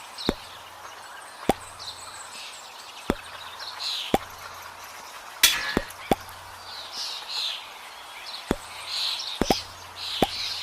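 Sharp knocks or taps, about a dozen at uneven intervals, over birds chirping faintly in the background.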